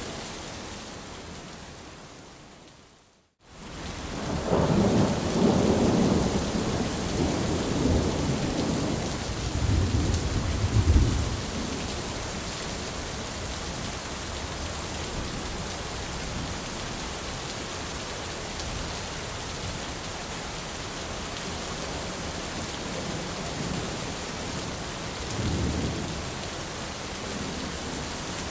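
Steady rain fades away to a moment of silence, then a thunderstorm starts again: rain with a long, rolling rumble of thunder that swells over several seconds, then steady rain with a shorter rumble of thunder near the end.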